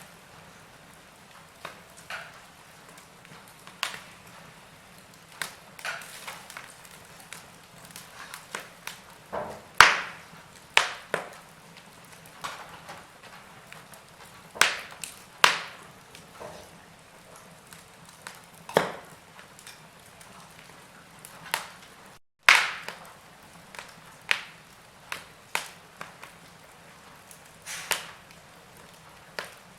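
Logs burning in a fireplace, crackling with irregular sharp pops and snaps over a soft steady hiss; the loudest pops come about ten seconds in and just after a split-second break in the sound a little past twenty-two seconds.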